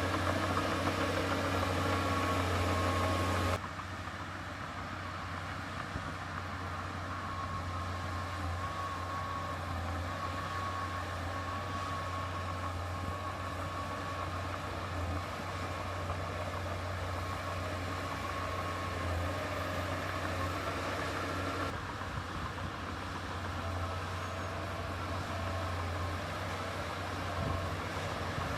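Heavy diesel engine of earthmoving machinery running steadily at low revs. The sound drops abruptly a few seconds in and changes again about three-quarters of the way through.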